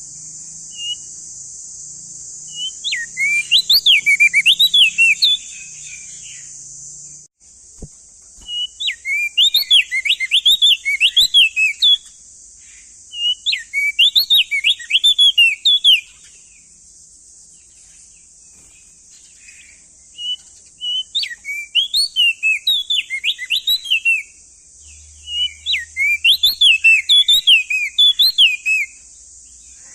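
Male opior jambul (crested white-eye) singing in loud bursts of quick rising-and-falling whistled notes, about five song phrases of three to four seconds each, separated by short pauses. A steady high hiss runs underneath and drops out for a moment about seven seconds in.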